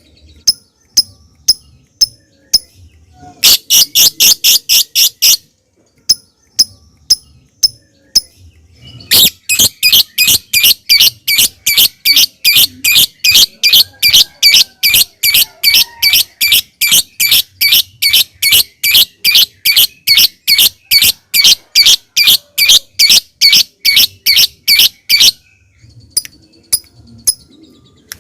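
Lovebird giving sharp, separate ticking notes ('ngetik') with a short fast burst among them, then breaking into a long run of loud, evenly repeated calls at about three a second ('ngekek') lasting some sixteen seconds, and ending with a few more ticks.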